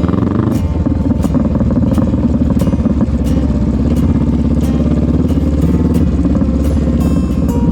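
Adventure motorcycle engine running steadily while riding a rocky dirt trail, with background music alongside it.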